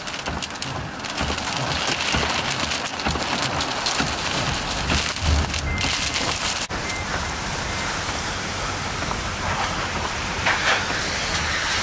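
Heavy wind-driven rain striking hard surfaces in a steady loud rush, full of many small sharp hits, in the storm right beside a tornado.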